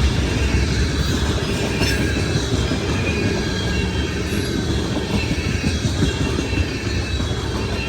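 Freight train cars rolling past at a grade crossing: a steady rumble of wheels on rail with thin, high wheel squeal above it.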